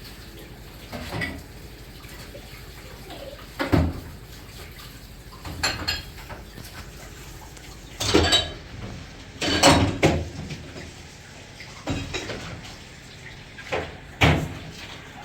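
Kitchenware clattering: repeated short knocks and clinks every second or two over a faint steady wash of water.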